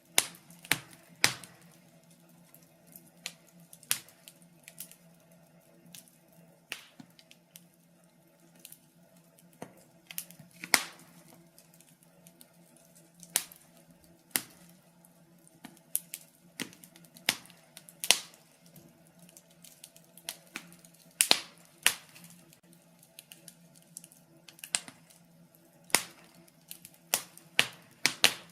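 Wood fire in a fireplace crackling: sharp, irregular pops and snaps from the burning logs, some louder than others, over a faint steady hum.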